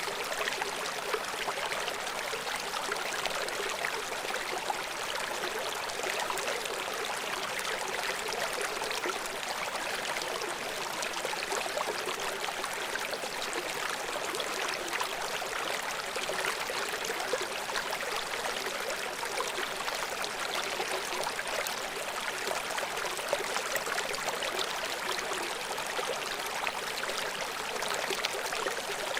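River water flowing steadily: a continuous, even rush with fine splashing and little deep rumble.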